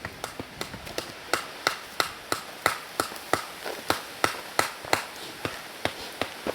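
A hand tool striking hard, stony ground in a steady rhythm, about three sharp strikes a second, digging into soil and stone.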